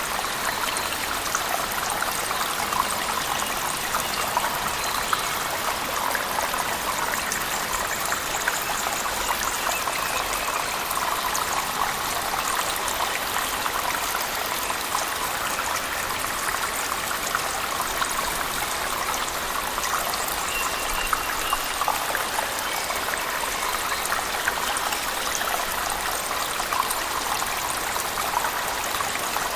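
Waterfall splashing in a cave, mixed with heavy rain: a steady, unbroken rush of falling water with fine spatter.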